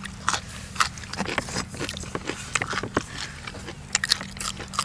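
Close-up eating sounds of spicy Isan rice-noodle salad: wet chewing and quick, irregular mouth clicks and smacks, several a second.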